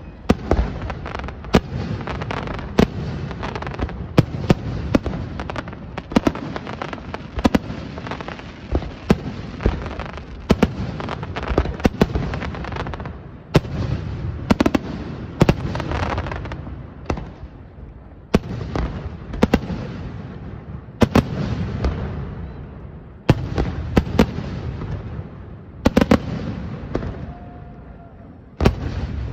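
Aerial fireworks display: shells bursting overhead one after another, with sharp bangs every second or so and crackling between them, easing off in a few brief lulls.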